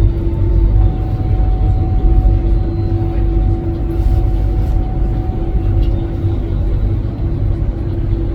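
Ivolga (EG2Tv) electric multiple unit running: a steady low rumble with a constant hum over it.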